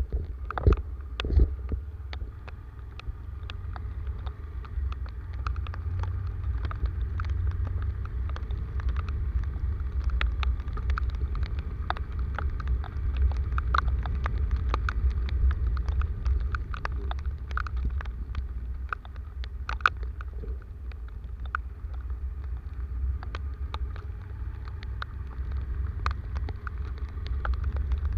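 Rainstorm: a steady low rumble under a wash of rain noise, with scattered sharp ticks throughout.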